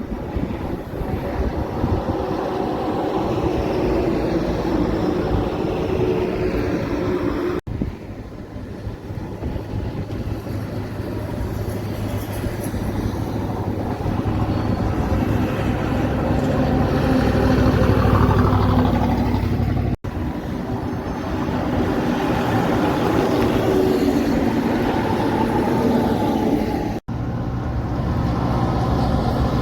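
Truck engines and road noise in four short clips joined by abrupt cuts. In the second clip the engine sound swells steadily to a peak before cutting off.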